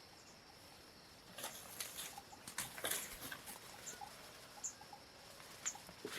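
Irregular light rustling and crackling clicks, the busiest about three seconds in, with scattered faint short chirps over a steady faint high tone.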